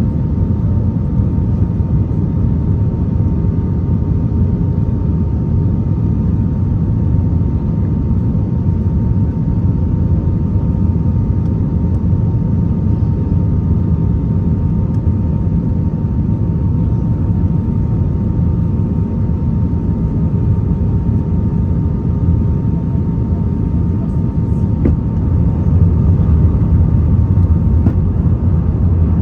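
Cabin noise inside an Airbus A320 in flight, heard from a window seat beside the wing: a steady low rumble of the engines and rushing air, with a faint steady whine above it. It grows a little louder about 25 seconds in.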